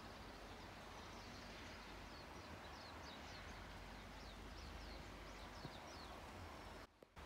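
A small bird chirping faintly, a loose series of short, quick, falling chirps over a steady background hiss. The sound cuts out briefly near the end.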